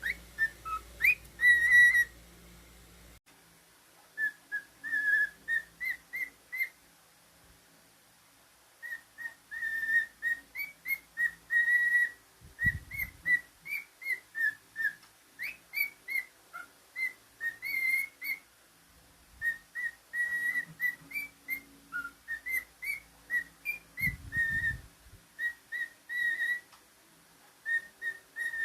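A cockatiel whistling a tune: runs of short, quick high notes that bend up and down, broken by brief pauses between phrases. Two dull low thumps sound partway through.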